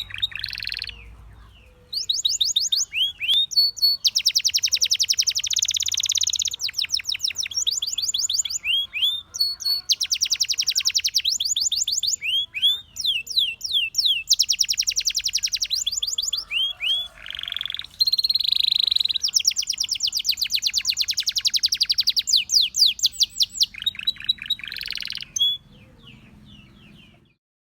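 Domestic canary singing: long rolls of very fast repeated notes alternating with sweeping whistled notes, in phrases separated by short pauses. The song stops near the end.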